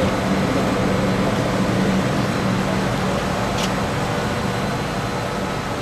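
Danobat high-speed blade tip grinding machine running with an RB211 jet engine rotor spinning in it: a steady whir with a low hum, easing off slightly in loudness toward the end.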